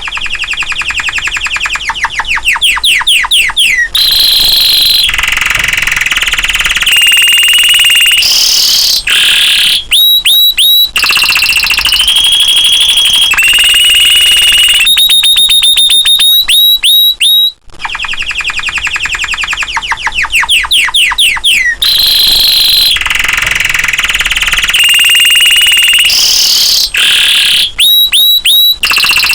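Domestic canary singing a long song of rapid trills and held whistled notes. The same song phrase repeats after about 18 seconds.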